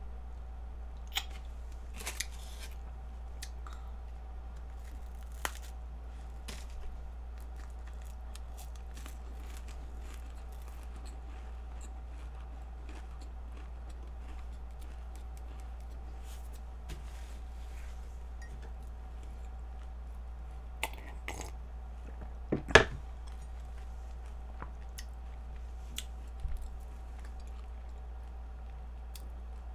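Sparse crunching and chewing of a flaky Nunettine puff-pastry stick close to the microphone: a handful of short sharp crunches, the loudest about three quarters of the way in, over a steady low electrical hum.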